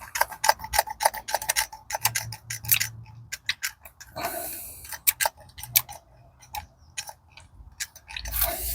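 Rapid irregular light clicks and clinks of small steel gearbox parts being handled and fitted on a shaft, with a short scraping rub about four seconds in.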